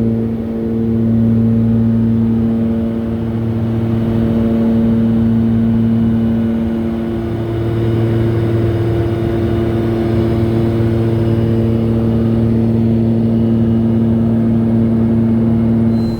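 Cabin noise of a Twin Cessna 414A in flight: its two turbocharged Continental six-cylinder piston engines and propellers make a steady drone of several low tones that swells and fades slowly.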